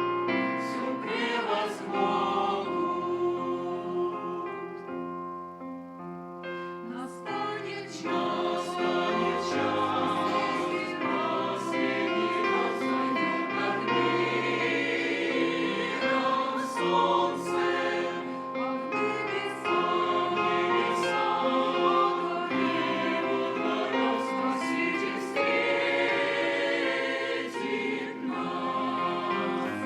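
A mixed church choir singing a hymn in sustained harmony, the voices holding chords over a moving bass line.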